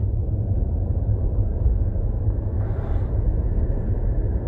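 Steady low rumble of road and wind noise inside a moving car, with a brief hiss about three seconds in.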